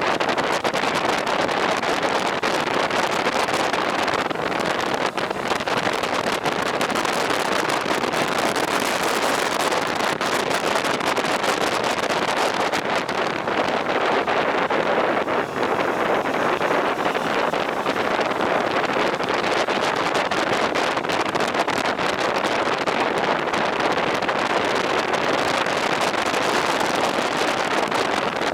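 Steady wind rush over the microphone of a moving motorcycle, a constant noise without a clear engine note.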